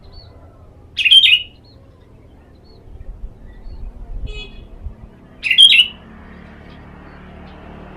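Sooty-headed bulbul (kutilang) giving two short, loud chirping calls about four and a half seconds apart.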